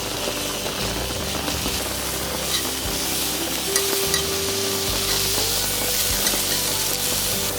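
Food sizzling in an iron griddle pan: a steady frying hiss with small pops and spits scattered through it.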